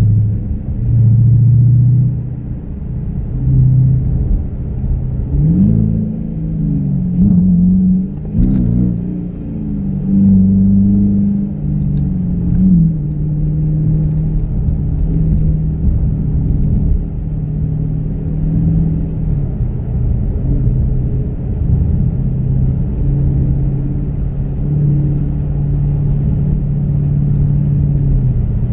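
Dodge Challenger R/T's 5.7-litre HEMI V8 and road rumble heard from inside the cabin, the engine note rising and falling as it accelerates about six seconds in, then settling into a steady cruising drone.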